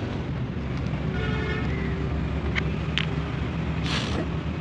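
A steady low engine rumble, with a few faint clicks and a short hiss near the end.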